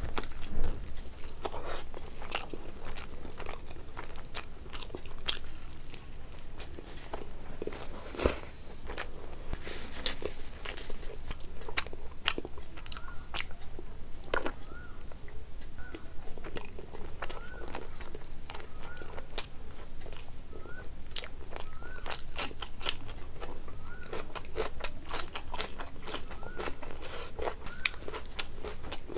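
Close-miked eating of curry and rice by hand: chewing and biting with many sharp, wet mouth clicks and crunches, a louder click near the start and another about eight seconds in.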